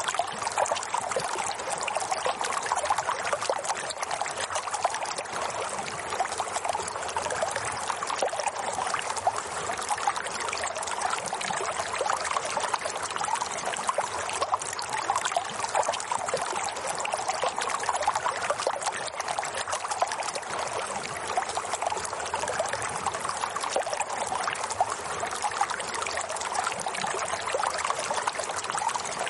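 Water trickling and babbling steadily in a continuous flow, like a small stream running over stones.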